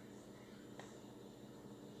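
Near silence: room tone with a faint steady hum and one faint tick.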